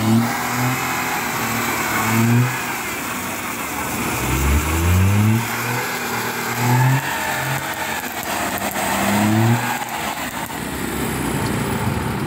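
Car engine revved hard again and again in short rising bursts, with one longer rev about four to five seconds in, over a steady hiss of heavy rain: the wheels are spinning on the slick wet road as the car fails to climb the steep hill.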